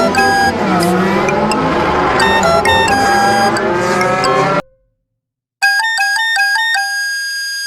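A loud, noisy sound effect with sliding pitches, mixed with music, which cuts off suddenly about four and a half seconds in. After a second of silence comes a quick run of short, bright electronic notes, ending on one held note.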